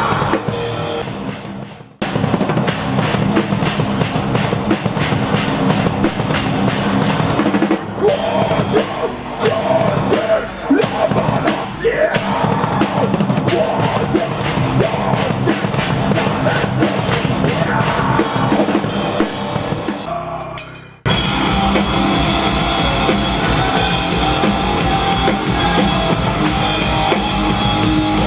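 Rock band playing live, drum kit loud in front, heard as raw stage sound. The music fades and cuts abruptly to another passage twice, about two seconds in and about 21 seconds in.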